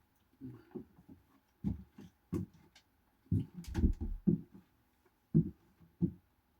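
Irregular dull thumps and knocks, about a dozen in a few seconds, some with a sharper click on top, over a faint steady hum.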